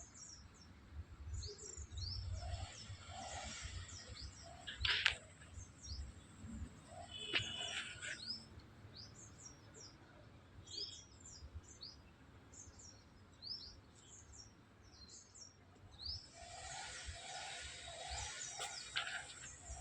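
Small birds chirping over and over, each chirp a short, high, quick downward note, with a low rumble underneath and a brief louder noise about five seconds in.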